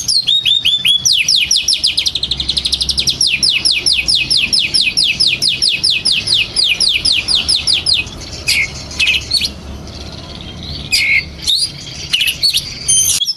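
Oriental magpie-robin singing excitedly: a long, rapid run of high, downward-slurred notes, about seven a second, followed by scattered sharp calls.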